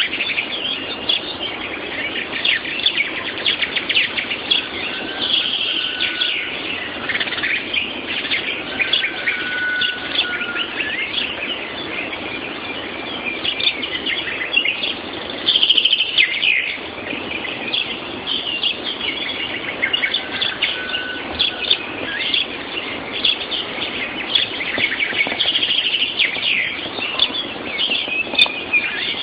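Morning chorus of many songbirds singing over one another: dense chirps and trills with a few short, clear whistled notes, heard through a mobile phone's microphone.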